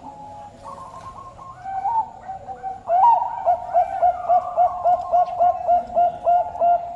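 Bangkok turtledove cooing: a few scattered coos, then from about three seconds in a rapid, even run of short coo notes, roughly four a second.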